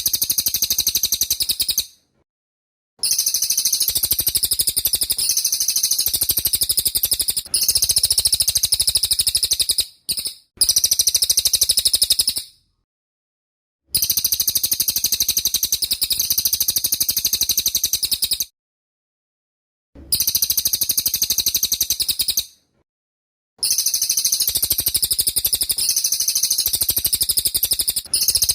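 Cililin bird singing a loud, high-pitched, rapid-fire trilling song in the 'tembak' style, in phrases of a few seconds each broken by short, abrupt silences.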